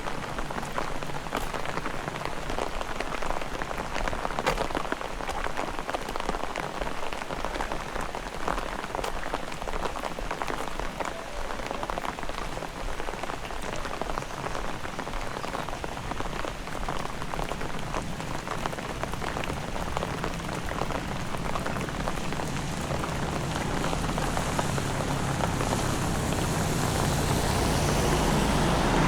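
Heavy rain falling steadily, with many close drops pattering on surfaces. A low rumble builds and the whole sound grows louder over the last few seconds.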